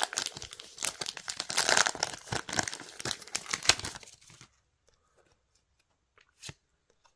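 Trading-card booster pack wrapper being torn open and crinkled for about four seconds, then a quiet stretch broken by one soft tap.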